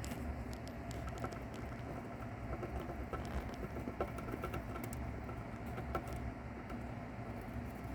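Irregular small clicks and crackles of a mouse chewing through a cicada's hard shell, over a steady low rumble.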